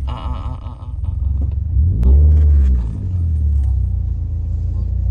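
Vehicle driving on a rough road: a heavy low rumble throughout, with the engine note rising and falling and getting loudest about two seconds in.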